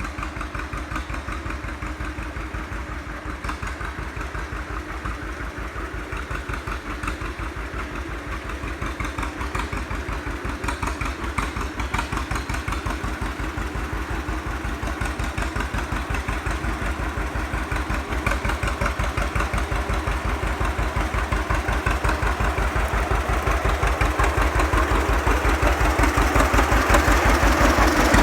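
Old tractor engine running with a steady, even firing beat, growing gradually louder toward the end.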